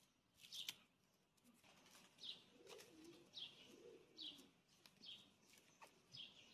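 Faint birdsong: a short high chirp repeated about once a second, with a lower wavering call near the middle. A few soft clicks sound among the calls.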